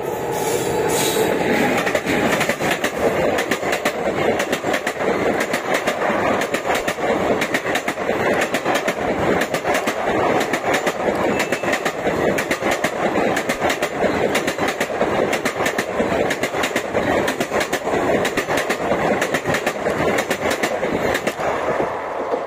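Passenger train coaches passing close at speed without stopping: a steady rush of wheels on rail with rapid clicking over the rail joints, easing slightly as the last coach goes by near the end.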